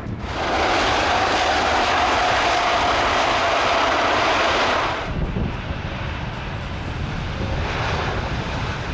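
Airbus A350-900 jet engines running loud, with a whine that falls slightly in pitch. The sound cuts off abruptly about five seconds in, leaving a lower rumble. The engine noise swells again near the end.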